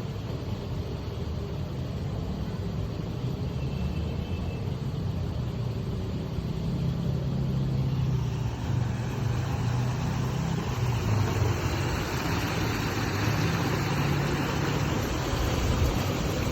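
Motor vehicle engine running with road and traffic noise, a low steady hum under a wash of noise that grows louder about halfway through.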